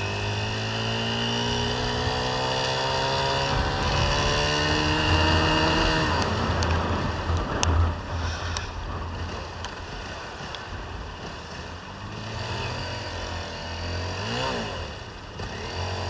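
Single-cylinder Honda CBR250R engine accelerating, its pitch rising steadily for about six seconds, then dropping under a steady rush of wind and road noise while riding, with a brief rise in engine pitch again near the end.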